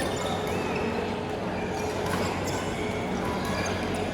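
Badminton being played in a sports hall: a few faint sharp racket hits and a brief shoe squeak over a steady hum and murmur of the hall.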